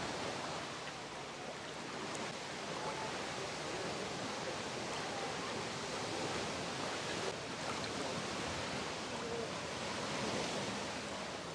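Steady wash of surf breaking and running up a beach, an even hiss with no clear breaks.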